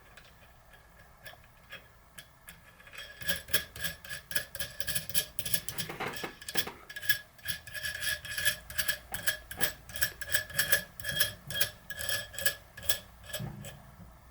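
Ratchet wrench clicking in runs of a few clicks a second, starting about three seconds in, as the nut of a home-made bearing press is wound down to push a worn sealed bearing out of a bicycle freehub body.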